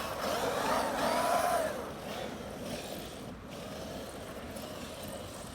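Hobbywing 5687 1100kv brushless motor and geared drivetrain of a Traxxas X-Maxx RC monster truck whining, rising and falling in pitch as the truck speeds up and slows. It grows fainter after about two seconds.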